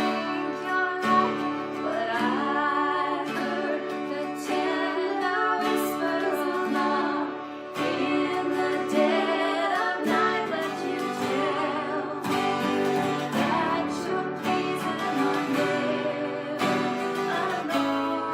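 A song with strummed acoustic guitar and a woman singing the melody.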